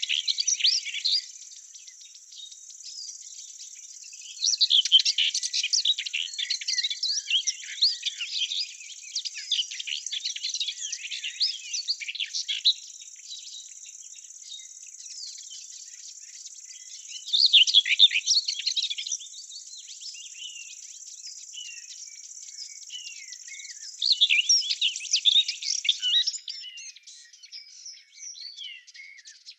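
Garden ambience: songbirds singing in quick chirping phrases that come and go, over a steady high insect trill that stops about three quarters of the way through.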